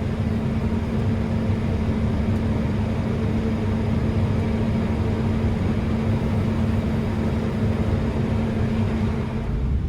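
Harvest machinery engine running steadily, a low even hum with a constant drone that cuts off just before the end.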